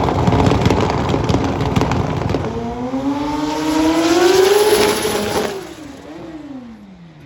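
Drag bike engine at full throttle, its note rising steadily for a couple of seconds. About five and a half seconds in it cuts off sharply and the note falls away as the rider backs out of the run, because the gears would not shift.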